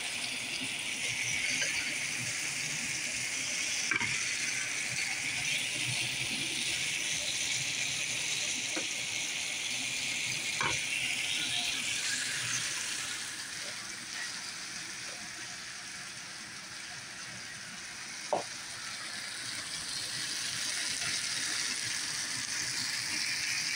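Vegetables sizzling steadily as they fry in a pan, stirred with a wooden spatula that knocks sharply against the pan a few times.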